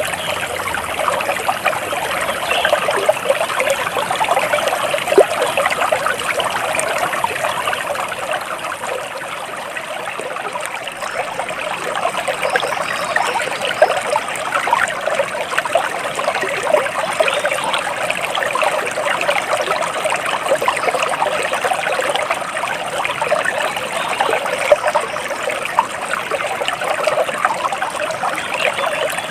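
Shallow stream water trickling and babbling steadily, a dense patter of small splashes over rocks.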